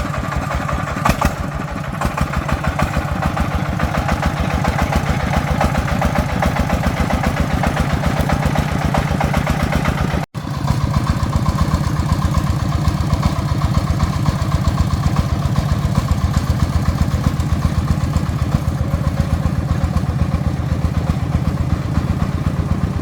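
Agricultural truck's single-cylinder diesel engine running with a steady, rapid chugging beat. The sound drops out for an instant about ten seconds in.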